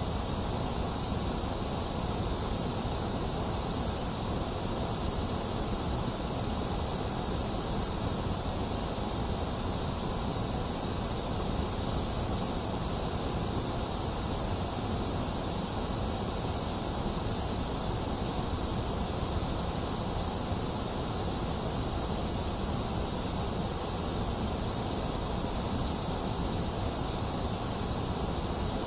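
Box fan running steadily, mixed with the hiss of rain: an even, unchanging wash of noise.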